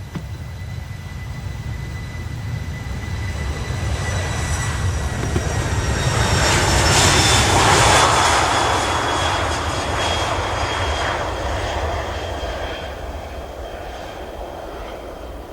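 Kawasaki P-1 maritime patrol jet passing the camera, its turbofan whine and low rumble building to a peak about eight seconds in, then fading. The whine slides slightly down in pitch as it goes by.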